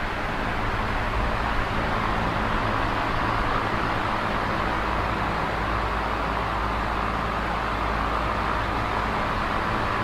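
Small oscillating electric fan running steadily: an even rush of air over a low, constant motor hum.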